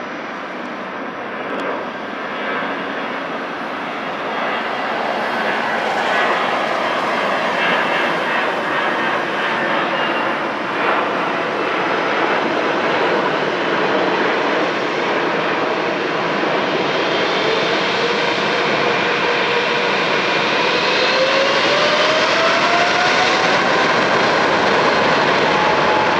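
Boeing 777's GE90 turbofan engines spooling up toward takeoff thrust: a steady jet roar that grows louder. A whine rises in pitch through the second half.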